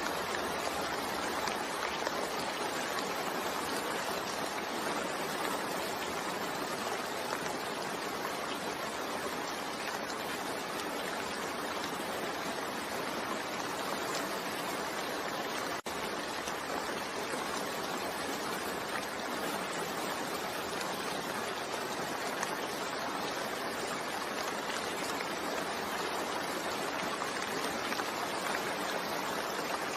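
Steady rain falling, a continuous even hiss, with a momentary dip in level about halfway through.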